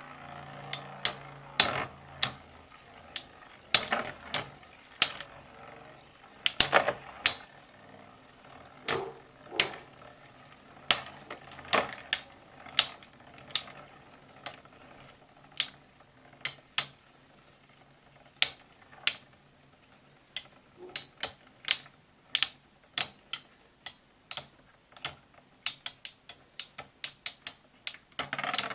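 Two metal Beyblades, Burn Fireblaze 105HF and Lightning L-Drago 100SD, spinning in a stadium and striking each other: sharp metallic clicks with a short ring. They come irregularly at first, then faster and closer together over the last several seconds.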